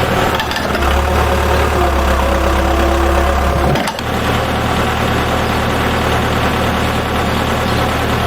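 An engine idling steadily, with a brief break about four seconds in where its sound abruptly changes.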